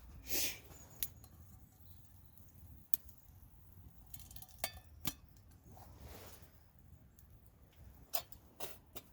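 Gear being handled by hand: scattered light clicks and clinks, with a short swish right at the start and a softer one about six seconds in.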